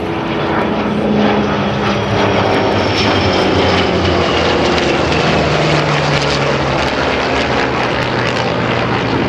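A formation of a Douglas Skyraider, an A-4B Skyhawk and a Vought F4U Corsair passing overhead. The big radial piston engines drone while a high whine slides down in pitch as the planes go by. The sound swells about a second in and stays loud.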